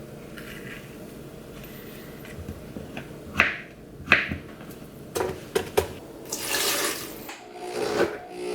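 Kitchen handling sounds: two sharp knocks, a quick run of clicks and clatter, then a brief rushing noise of about a second, with another knock or two near the end.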